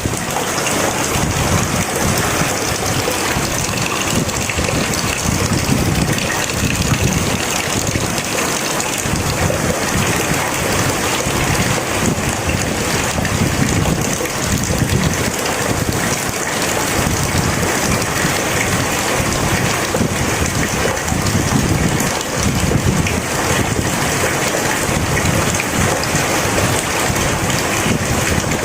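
Heavy rain falling steadily as a dense, even hiss, with a low rumble underneath that swells and fades every second or two.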